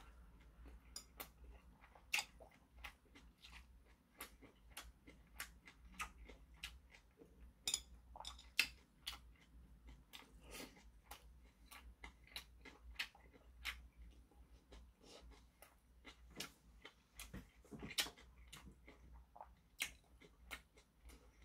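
A man chewing and smacking his lips as he eats boiled pork and rice, with many short sharp clicks and smacks scattered through. A faint low hum runs underneath.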